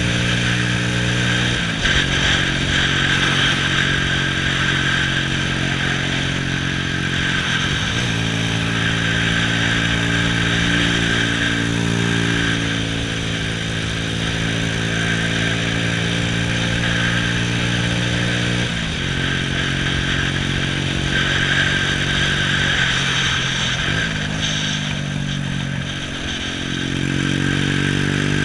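Honda Astrea's small single-cylinder four-stroke engine running under way, heard from on the bike over a steady rush of wind and road noise. Its note drops in pitch a few times, then dips and climbs again near the end.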